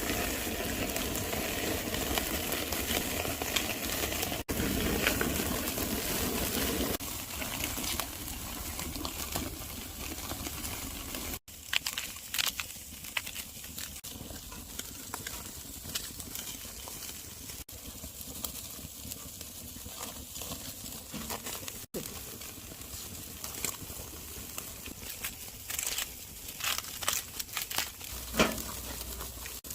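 Tomahawk ribeye steaks sizzling over a charcoal fire, with scattered crackles and pops. The sizzle is fuller for the first ten seconds or so, then thinner, and it breaks off abruptly a few times.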